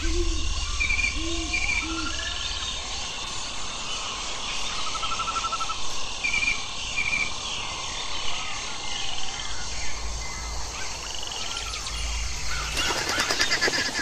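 Forest ambience of several birds calling: short repeated high chirps and a fast trill about five seconds in, over a steady background hiss. There are a few low, short calls in the first two seconds, and a rapid pulsing rattle comes near the end.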